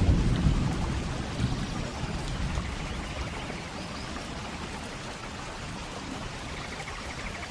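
Steady rain falling. A low rumble in the first couple of seconds fades away, leaving an even hiss of rain.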